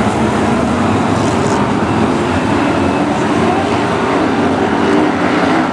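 BriSCA F1 stock cars' V8 engines running hard as the pack laps the oval, a loud, steady mass of engine noise.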